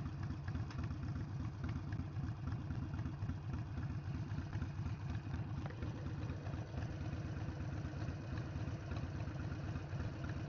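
Harley-Davidson Sportster 883's air-cooled V-twin engine running steadily, a fast, even low rumble.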